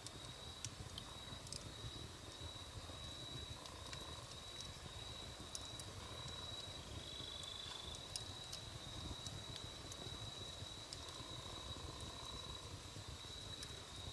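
Wood fire burning with scattered sharp crackles and pops over a low rumble, while a steady high-pitched insect drone runs behind it.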